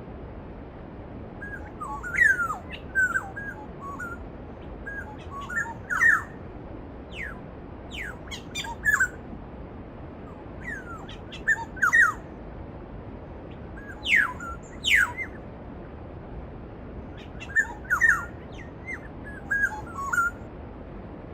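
Bird calls and song over a steady rushing of stream water. The calls come in groups of short notes and quick falling whistles, the loudest about two, six, twelve and fifteen seconds in.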